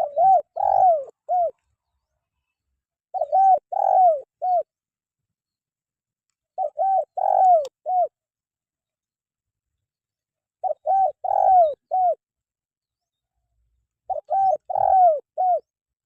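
Spotted dove (terkukur) cooing: five repeated phrases of three or four short falling notes, one phrase about every three and a half seconds.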